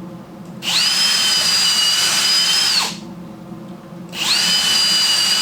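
Power drill running twice, about two seconds each with a short pause between, drilling a couple of holes. Each run is a steady high whine that spins up at the start and winds down at the end.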